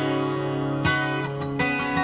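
Acoustic guitar music: strummed chords that ring on, with a fresh strum about a second in and another near the end.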